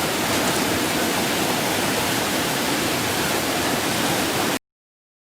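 Steady rush of floodwater, a dense roar of noise with no distinct splashes, cutting off abruptly near the end.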